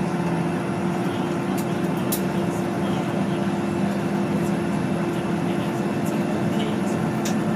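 Steady drone of a jet airliner's engines heard inside the passenger cabin: two low steady tones over an even rush of noise, unchanging in level, with a few faint light clicks.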